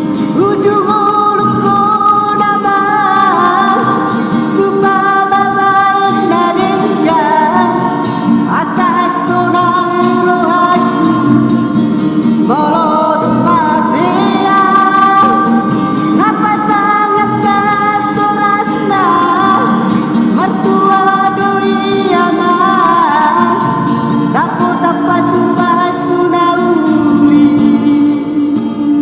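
A Batak song sung solo, with long held notes that slide up and down in pitch, over guitar accompaniment.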